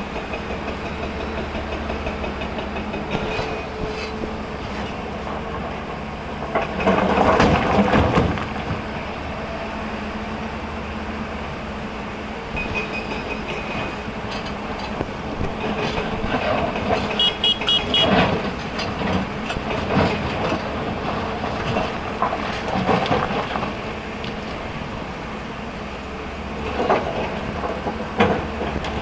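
Hyundai excavator's diesel engine running steadily, with several loud bursts of rock clattering as stone is loaded, the loudest about seven to eight seconds in.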